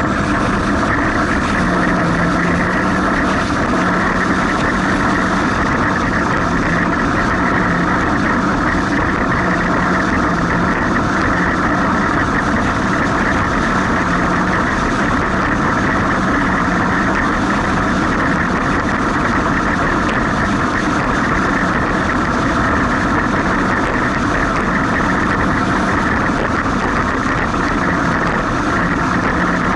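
Jet ski engine running steadily, its pitch wavering slightly, over a dense rushing noise.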